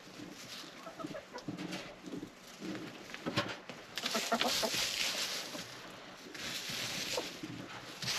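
Backyard hens clucking softly. Two stretches of hissing, rustling noise, about halfway through and again near the end, are louder than the clucks.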